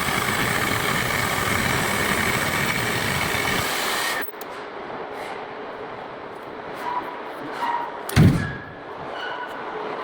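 CNC cutting machine's torch cutting steel with a loud steady hiss and a faint whine, shutting off abruptly about four seconds in as the cut ends. A few light clicks follow, and a single loud thump about eight seconds in.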